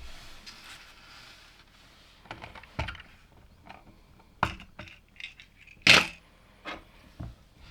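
Plastic LEGO pieces being handled and clicked together: a soft rustle at first, then a run of sharp clicks and clinks, the loudest about six seconds in.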